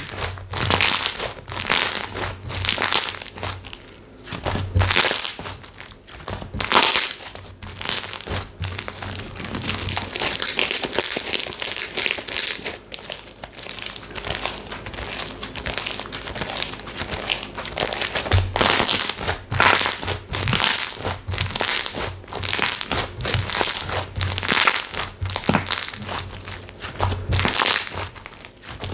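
Textured slime being squeezed and pressed by hand, giving crinkly, crackling bursts again and again with small pops.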